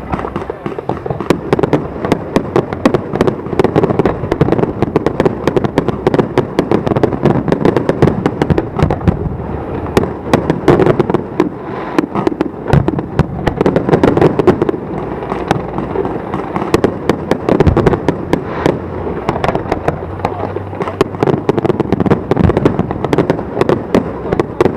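Aerial fireworks bursting continuously: many sharp cracks and pops a second over a steady rumble of shell explosions.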